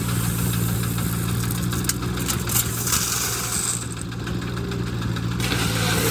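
Diesel engine of the excavator or the công nông truck running steadily at idle, with a few short knocks about two to three seconds in.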